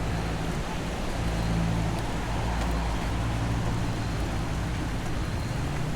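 Steady rain noise over a constant low hum, with a few faint ticks of drops.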